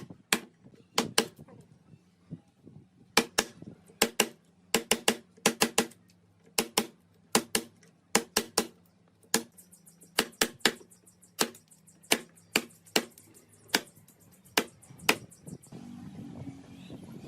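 Sharp tapping knocks on a hard surface, mostly in quick groups of two or three, repeated irregularly over a steady low hum. A fine high ticking joins in about halfway through, and the taps stop about a second before the end.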